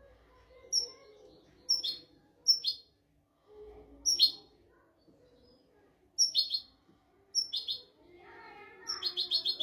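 European goldfinch singing: sharp, high chirped notes that slide downward, about one a second, then a quick run of about five notes near the end.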